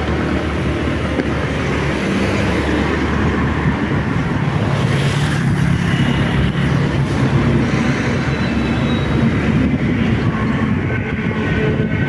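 Motorcycle engine running steadily while riding, a low continuous drone mixed with road noise.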